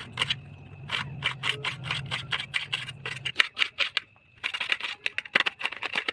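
Fast, uneven run of short cutting strokes in a kitchen, about five or six a second, with a brief pause about two-thirds of the way through. A low hum runs underneath and stops about halfway through.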